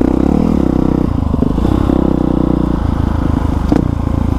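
Honda CRF450R dirt bike's single-cylinder four-stroke engine running through an aftermarket exhaust while riding a trail, its note wavering as the throttle changes, with a sharp knock about three and a half seconds in.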